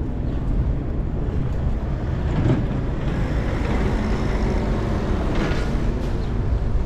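Steady low rumble of road traffic, with two brief louder swells about two and a half and five and a half seconds in.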